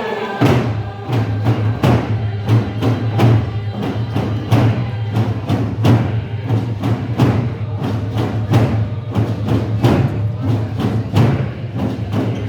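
Coast Salish hand drums beaten together in a steady beat, about three strokes a second, starting about half a second in, with group singing.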